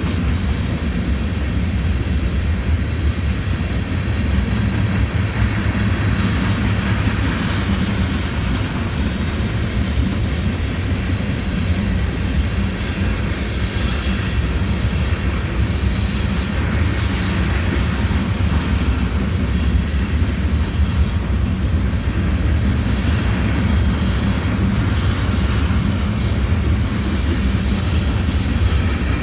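Coal train rolling past: a steady, loud low rumble of its wheels on the rails that does not let up.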